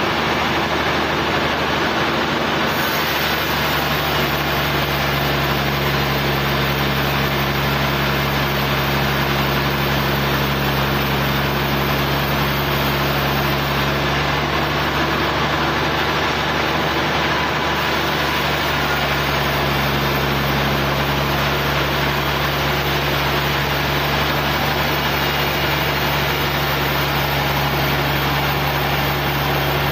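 Engine running steadily at a constant speed, the kind of engine that powers a sawmill, with an even mechanical hiss over a low hum.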